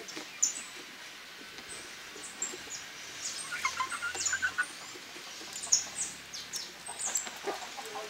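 Birds calling: many short, high chirps throughout, with a cluster of lower-pitched calls about four seconds in.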